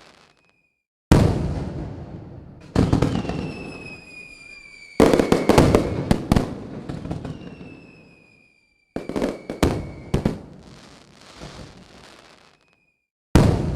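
Aerial fireworks bursting: five sudden loud bangs a few seconds apart, each trailing off in crackle, with a high whistle slowly falling in pitch over the middle bursts. Brief dead-silent gaps break the sequence.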